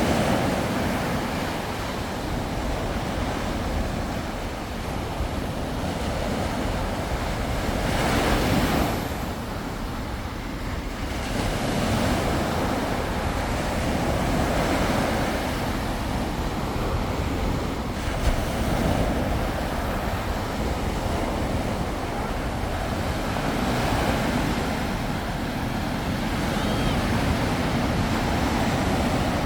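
Sea surf: waves breaking and washing onto the shore in a continuous rush that swells and eases every few seconds, with one louder surge about eight seconds in. Wind buffets the microphone underneath.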